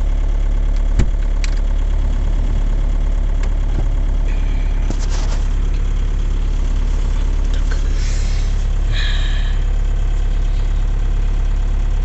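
Opel Frontera 2.2 DTI four-cylinder turbodiesel idling steadily, still cold after a start at −11 °C. One short knock about a second in.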